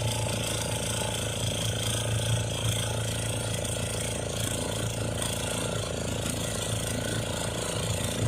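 Boat engine running steadily with a rapid, even chugging hum.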